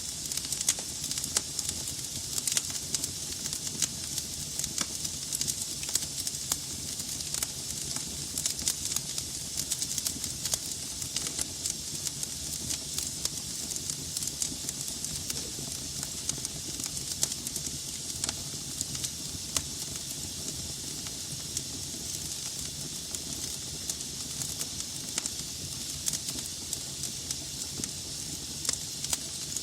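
Wood logs burning in a fireplace: a steady hiss of flames with frequent sharp, irregular crackles and pops.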